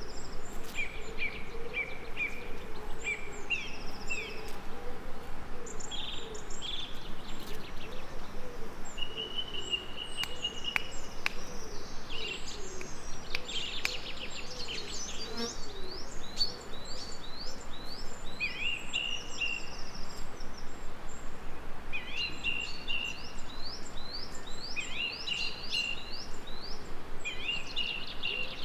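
Songbirds singing busily in short repeated chirps and trills over a steady background hiss, with a bee buzzing at a wavering pitch through the first half.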